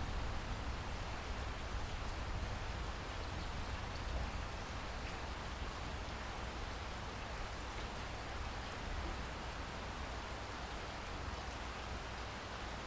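Steady rain falling: an even hiss of drops with a low rumble underneath and a few faint individual drop ticks.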